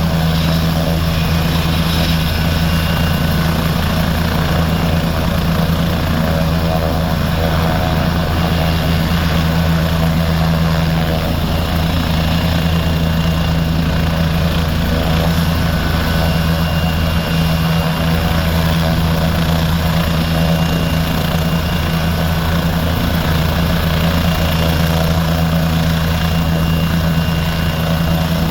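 Air ambulance helicopter's turbine engines and rotors running steadily, a constant low drone with a faint high turbine whine above it.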